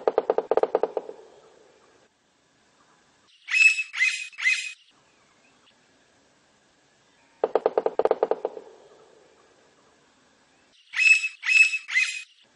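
Blond-crested woodpecker calling. A low, rapid rattling series fades out over about two seconds and is followed a few seconds later by three loud, high notes. The pair comes round twice.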